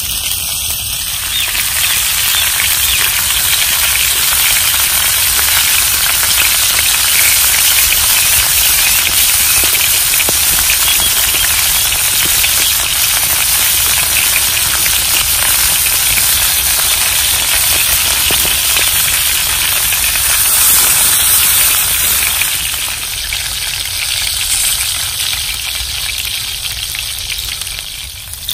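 Leaf-wrapped pieces of meat frying in oil in a clay pan, a steady dense sizzle that dies down near the end.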